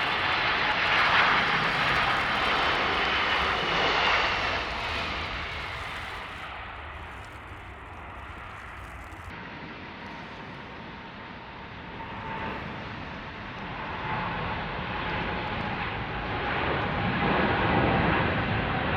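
A large jet airliner's engines pass close with a whine that slides down in pitch, then fade away. After a cut, another wide-body airliner's jet engines rise again to a loud rumble as it departs.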